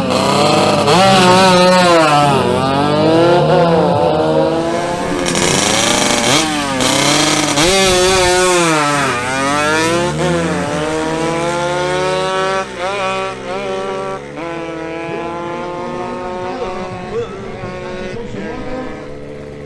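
Drag-racing motorcycles, a two-stroke Yamaha RX 135 and an AKT 125 LS, revving up and down repeatedly, then accelerating with a long rising pitch through gear changes. The sound fades near the end.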